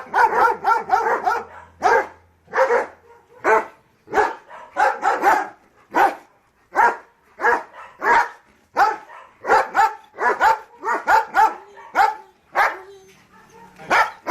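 German Shepherd dog barking over and over, sometimes in quick runs of barks and sometimes in single barks about a second apart.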